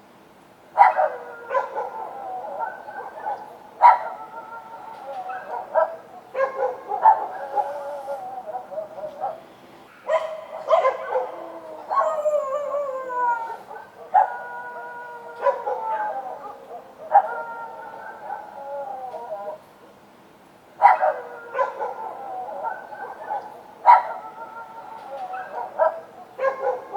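Street dogs barking and howling: sharp barks that trail off into drawn-out, falling wails, coming in bouts with short pauses between them.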